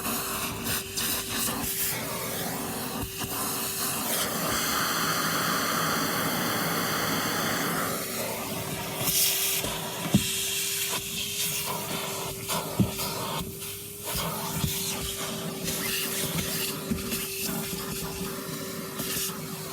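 Vacuum cleaner running, with a steady motor hum under a rushing hiss of air that changes as the nozzle moves, and a few sharp clicks.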